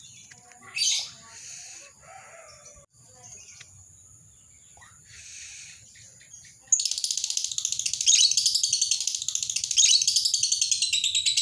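Lovebird calling: a few scattered chirps, then about seven seconds in a loud, very rapid, unbroken chattering trill, the long 'ngekek' song, which carries on.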